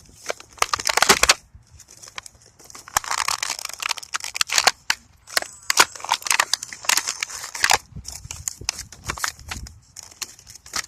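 Plastic and cardboard toy packaging crinkling and crackling in irregular bursts of sharp clicks as a toy is worked out of it.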